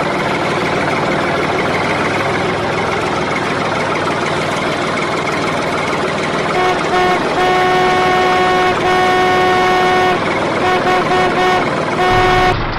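Steady engine-like running noise, then a vehicle horn honking from about halfway in: three long blasts followed by several short toots.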